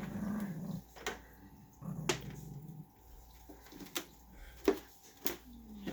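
Small dog growling low in two stretches, one at the start and one about two seconds in, with several sharp clicks in between: a warning growl guarding kittens.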